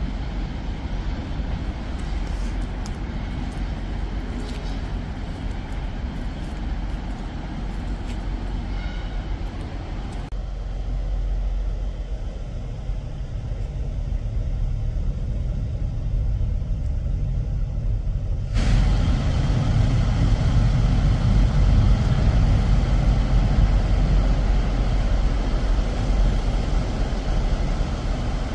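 A train at a station platform: a steady low rumble of engine and rail noise, which suddenly grows louder about two-thirds of the way in.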